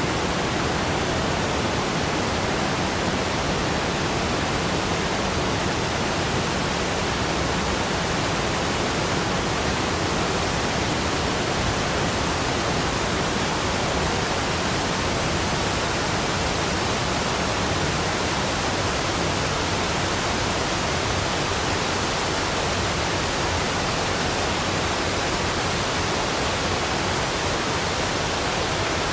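Waterfall rushing: a steady, unbroken rush of falling water.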